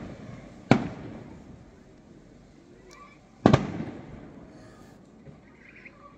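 Aerial firework shells bursting: two loud bangs, one about a second in and one about three and a half seconds in, each followed by a rolling echo that fades away.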